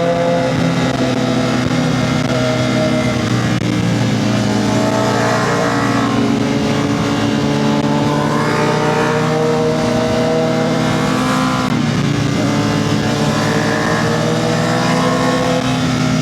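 Motorcycle engine running hard on the throttle, its pitch climbing and dropping again and again as it accelerates and shifts gears, with a brief drop about twelve seconds in.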